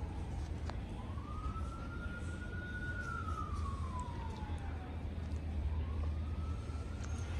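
A distant emergency-vehicle siren wailing, its single tone sliding slowly up and down about every four to five seconds, over a steady low rumble.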